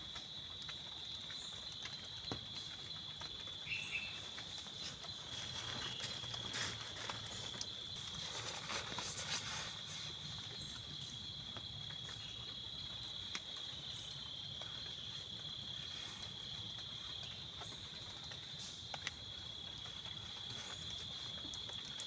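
Insects trilling steadily at one high pitch, with scattered light taps and knocks, most of them between about six and ten seconds in.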